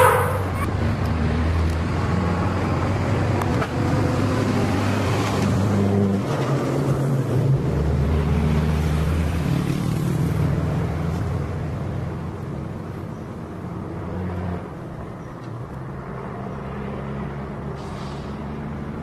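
Motor vehicle engines running with traffic noise. The low engine note shifts about six seconds in and eases somewhat in the second half.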